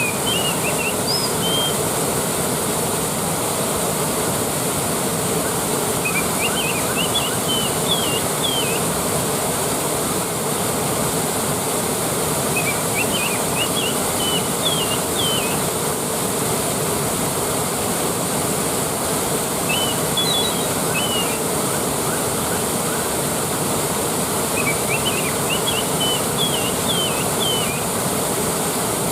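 Waterfall rushing steadily as an even wash of water noise. Short phrases of quick high chirping come through it about every six seconds, five times in all.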